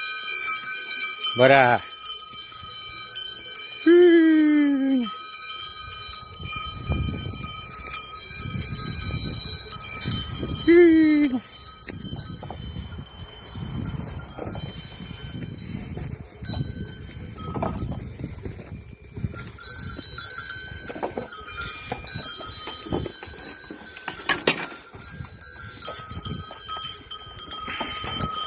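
Bells on a herd of goats ringing and jingling as the herd moves, with two wavering, falling goat bleats, about four and eleven seconds in, and many soft low knocks.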